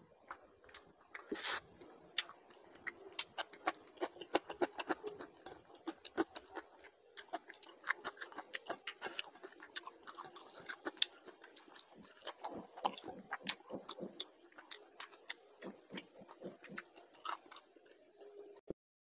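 Close-miked mouth sounds of a person chewing a mouthful of rice and fish curry eaten by hand: wet, irregular clicks and smacks several times a second, with one louder bite about a second and a half in. The sound cuts to silence abruptly just before the end.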